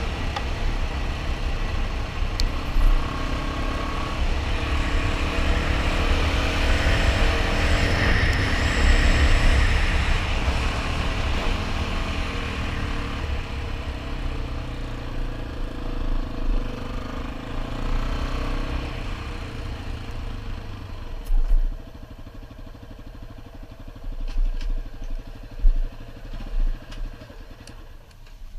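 Dual-sport motorcycle engine running while riding, with a heavy low rumble. About two-thirds of the way in the engine sound drops away, leaving quieter noise and a few short knocks near the end.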